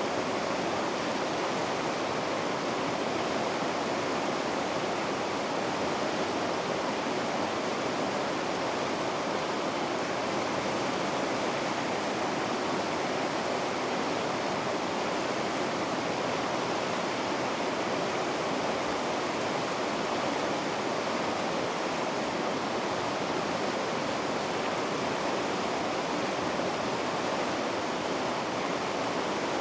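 River rapids: a steady, even rush of water.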